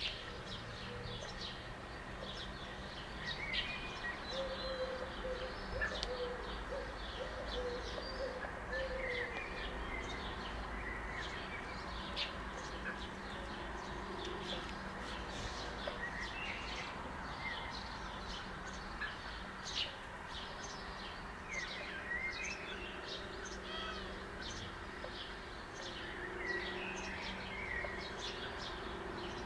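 Birds chirping and calling throughout, with short high chirps and lower cooing calls now and then, over a steady low background hum.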